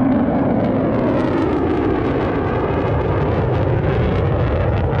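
Aircraft flying past, a loud, steady engine noise with a slow whooshing sweep in tone as it goes by.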